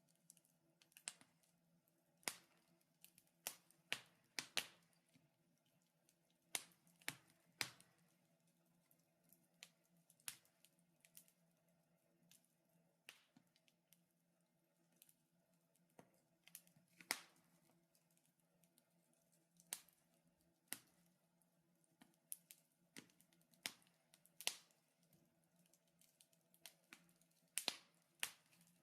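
Wood fire crackling in a fireplace: sharp pops at irregular intervals, several close together in places, over a faint steady hum.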